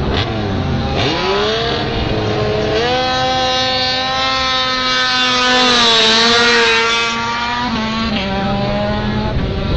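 MotoGP race motorcycle engine at high revs, its note climbing about a second in and stepping up again, loudest a little past the middle, then dropping in pitch in steps near the end.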